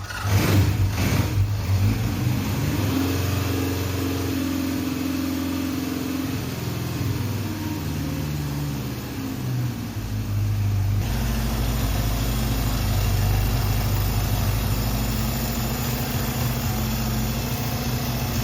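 1972 Honda CB750's freshly rebuilt four-cylinder engine running, its speed rising and falling for about the first ten seconds, then settling to a steady idle.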